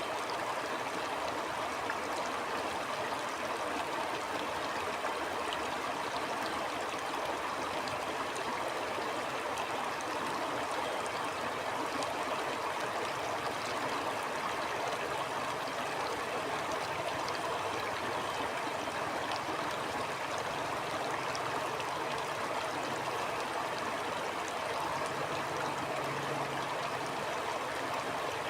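Stream flowing steadily: an even, unbroken rush of running water.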